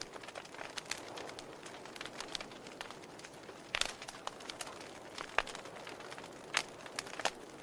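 Wood fire crackling in a fireplace: irregular sharp pops and snaps over a soft steady hiss, with a few louder snaps in the second half.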